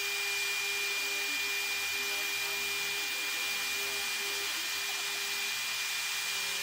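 CNC router spindle running steadily as it cuts acrylic sheet: a constant high whine over an even hiss.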